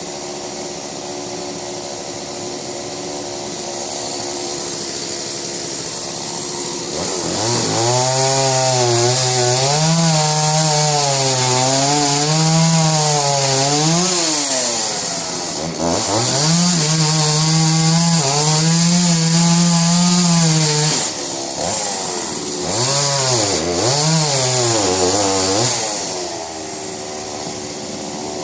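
Two-stroke chainsaw idling, then run up to full throttle and cutting wood for most of the clip, its pitch sagging and rising as the chain bites. The throttle is let off briefly a few times before the saw drops back to idle near the end.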